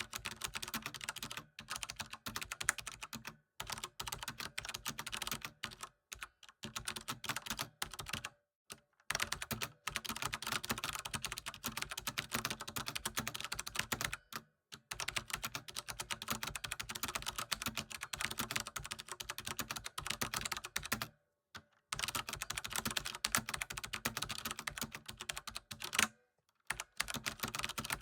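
Computer keyboard typing: fast, continuous runs of key clicks broken by short pauses of a fraction of a second to about a second, several times.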